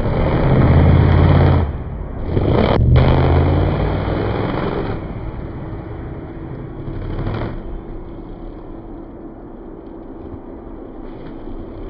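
Monster truck engine revving hard in two long bursts over the first five seconds, then one shorter rev about seven seconds in, idling lower in between.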